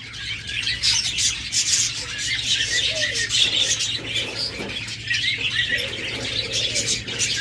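Many caged lovebirds and other aviary birds chirping and squawking together in a continuous, overlapping chatter, over a steady low hum.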